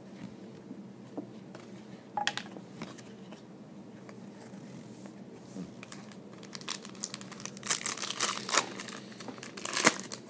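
Foil wrapper of a trading card pack being torn and crinkled: a short crackle about two seconds in, then a longer run of crinkling that is loudest near the end.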